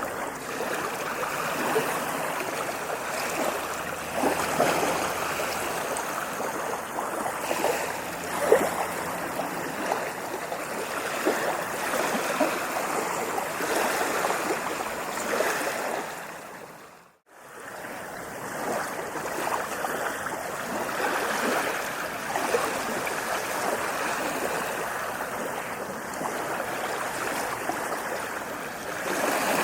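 Sea waves breaking and washing up a beach as a continuous rush of surf. Just past the middle it fades out to silence and straight back in.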